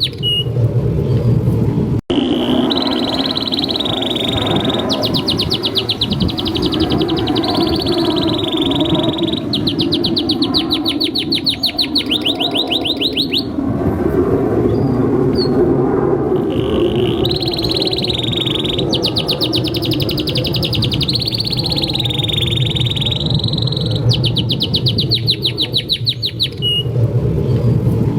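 Male domestic canary singing a long, unbroken song: rapid trills of evenly spaced notes lasting a few seconds each, alternating with held whistled notes that waver in pitch, over a steady low background noise. The song breaks off for an instant about two seconds in.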